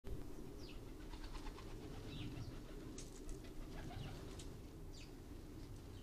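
Faint garden birdsong: a few short, high, falling chirps spread through, over a steady low hum.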